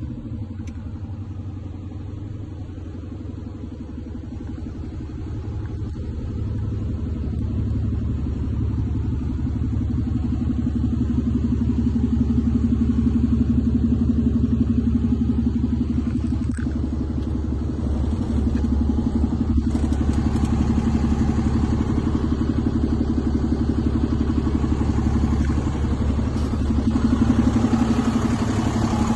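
DAF CF 290 truck's six-cylinder diesel engine running steadily, growing somewhat louder over the first dozen seconds and then holding even.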